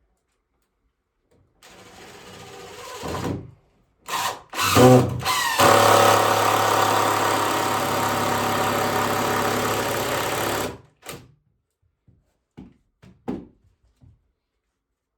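Electric drill starting in short bursts with its pitch rising, then running steadily for about five seconds before stopping. A few light knocks follow.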